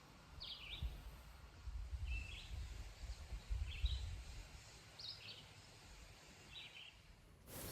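A bird giving short high chirps about every second and a half, five in all, over a faint low rumble.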